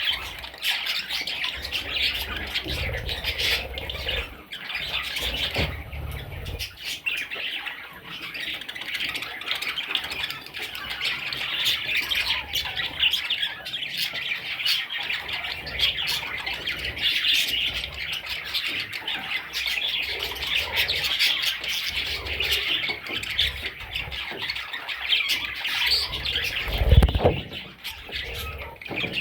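Budgerigar chicks squawking and chirping in a dense, continuous chorus of rapid raspy calls. A low bump sounds near the end.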